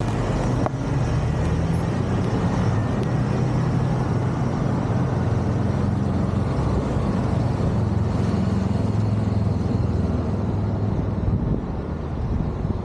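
BMW R1200GS boxer-twin engine running steadily while riding, with a dense rush of wind and road noise over a low, even engine hum.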